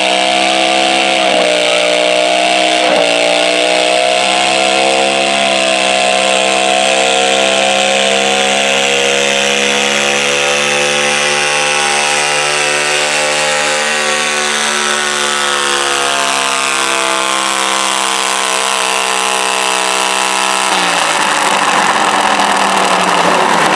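Modified garden tractor's small engine running flat out under load on a stoneboat pull, its high-revving note slowly sagging in pitch as it labours. About 21 seconds in the engine note drops away abruptly as the throttle comes off.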